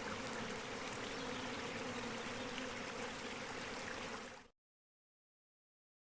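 Steady outdoor ambience: an even hiss with a faint low hum. It fades out to complete silence about four and a half seconds in.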